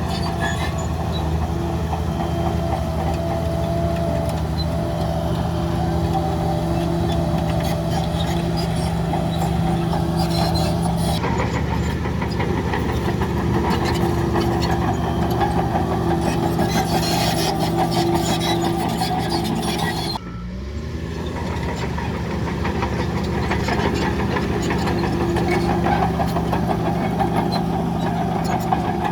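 Heavy diesel earth-moving machinery, a bulldozer and dump trucks, running steadily under load with a fast mechanical rattle. The level dips briefly about twenty seconds in, and the engine note then rises a little.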